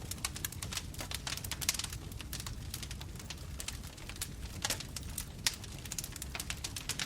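Wood bonfire burning, with dense irregular crackling and popping over a low steady rumble of the flames.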